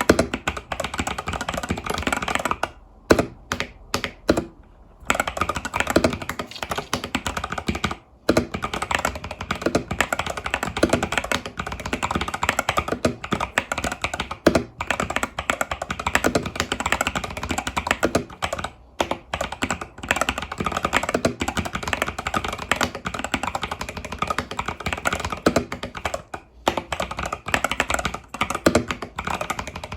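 Fast continuous typing on an Epomaker TH80 Pro mechanical keyboard with Epomaker Budgerigar tactile switches and stock keycaps, a dense run of keystroke clicks with a few short pauses, the longest about three seconds in.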